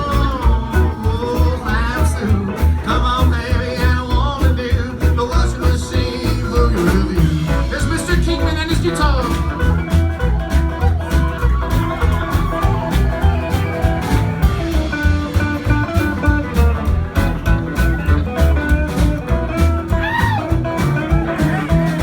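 Live band playing an instrumental break of a rockabilly boogie: a lead guitar line with bending notes over a steady pulsing bass and drum beat.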